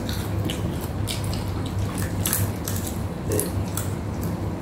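Close-up eating sounds of crispy deep-fried tilapia being chewed, a steady run of irregular crisp crunches and wet mouth smacks.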